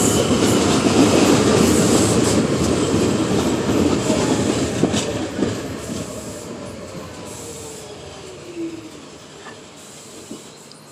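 R46 subway train running on the track and moving away, its rumble and wheel noise fading steadily. A falling whine starts about halfway through, with a few clicks from the wheels.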